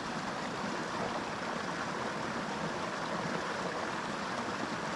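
Small mountain creek flowing over rocks, a steady, even rush of water with no distinct splashes or other events.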